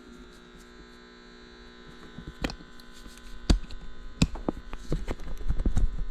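Steady electrical hum from the running power inverter, with irregular clicks, knocks and low thumps from about two seconds in as the grinder's plug and cord are handled and pushed into the outlet.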